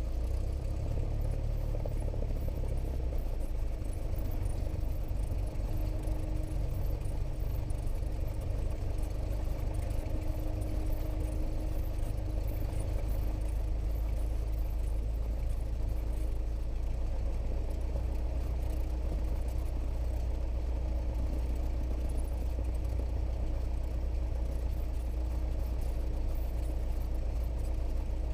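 A Cessna 172S's four-cylinder Lycoming piston engine and propeller running steadily at low taxi power, heard from inside the cockpit as a low drone.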